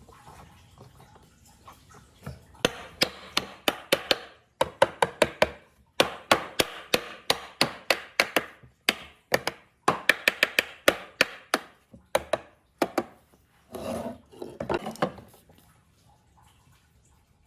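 Quick runs of sharp knocks on wood, about four or five a second, with short pauses between the runs. Near the end come two longer rubbing or scraping strokes.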